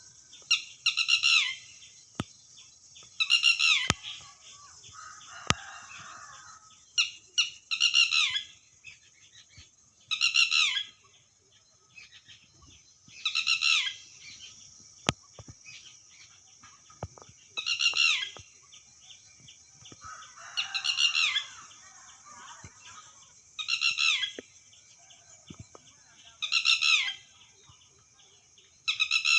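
Red-wattled lapwing calling: a loud, shrill, stuttering call, each a quick run of notes falling in pitch, repeated every two to four seconds. A steady high-pitched buzz runs underneath.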